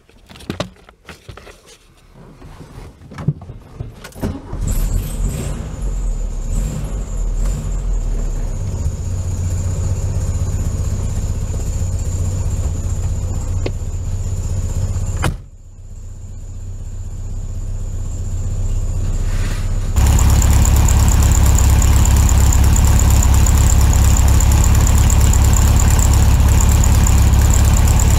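Electric buffer/polisher motor running steadily with a high whine, preceded by a few handling clicks. Near the middle it drops off suddenly, then spins back up over a few seconds, and it runs louder for the last third.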